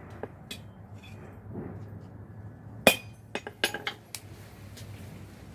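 Hammer and tools clinking on steel at the anvil: one sharp metallic strike about three seconds in, followed by a quick run of lighter clinks, over a low steady hum.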